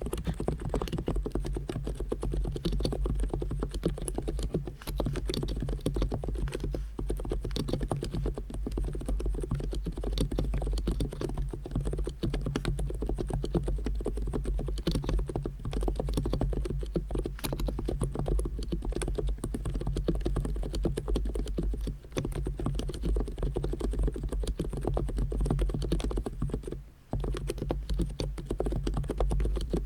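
Fast continuous typing on an Abko K990 v3 electro-capacitive (non-contact) keyboard with SA keycaps: a dense run of deep, muffled keystrokes, with a brief pause about 27 seconds in.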